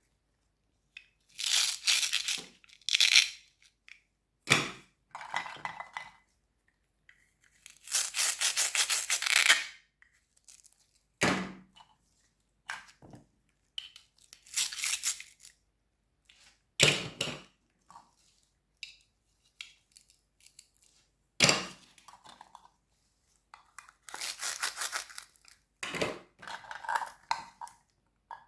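Crunchy fruits and vegetables being cut and crushed: a series of separate crisp crunches and crackles with quiet gaps between them, the longest running about two seconds near the middle.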